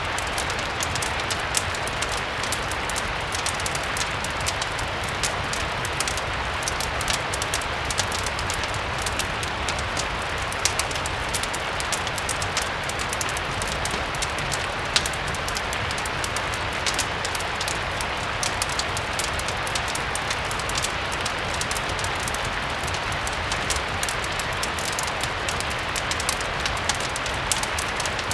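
Steady rain hiss blended with a crackling wood fire: an even wash of rain with frequent small, sharp crackles and pops scattered through it.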